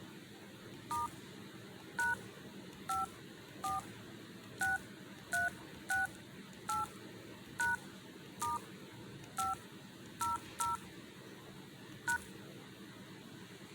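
Touch-tone keypad beeps from a phone's dial pad as a number is keyed in: about fourteen short two-tone beeps at an uneven pace, roughly one a second, each starting with a faint tap click.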